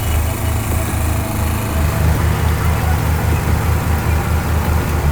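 A heavy vehicle's engine running with a low, rhythmic throb, pulsing several times a second and slightly louder from about two seconds in.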